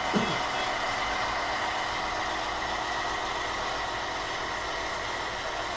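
Road train prime mover's diesel engine idling steadily. Just after the start, a short sound drops quickly in pitch.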